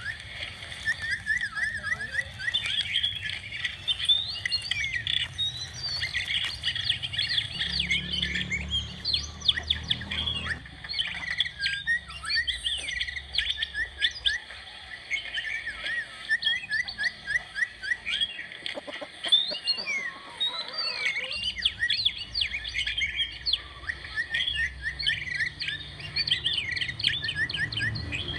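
Many small birds chirping nonstop, with short, high chirps overlapping one another.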